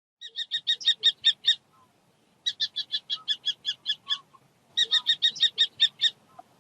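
Falcon calling: three quick series of harsh, rapid notes, each series lasting about a second and a half with roughly six or seven notes a second.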